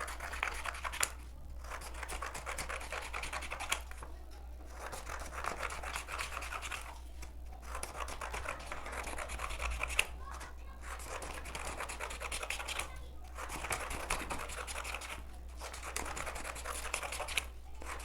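Blunt-tip scissors cutting long strips of coloured paper: a steady scratchy rasp of the blades through the paper, in runs broken by short pauses every two to three seconds.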